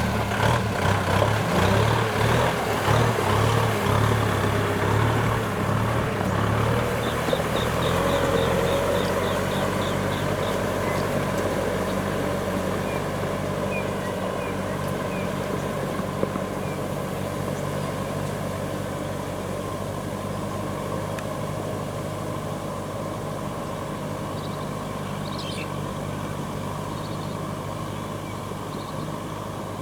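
Kubota M6040SU tractor's diesel engine running, loudest and most uneven in the first several seconds, then steady and slowly fading away.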